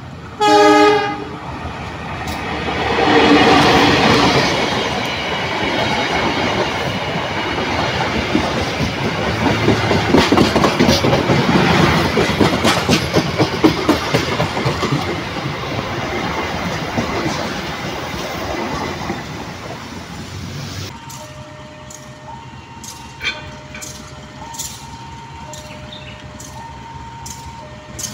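A diesel locomotive horn gives one short blast. The passenger train then passes close by, its wheels clacking rhythmically over the rail joints for about fifteen seconds. Near the end, after a cut, an electronic warning sounds steadily, alternating between two notes.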